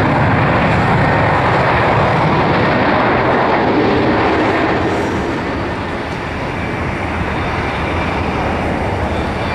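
Airbus A330 jet airliner's engines running loud, a steady rushing noise that eases slightly about six seconds in.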